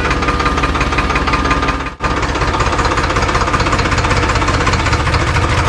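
Tractor engine running with a rapid, even knocking beat. It cuts out for an instant about two seconds in, then carries on.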